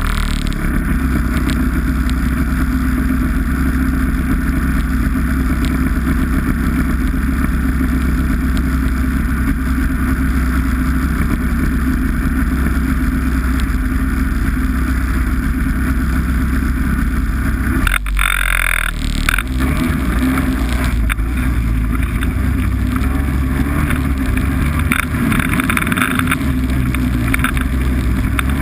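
Snowmobile engine running steadily under way. Its note drops out briefly about two-thirds of the way through, then picks back up.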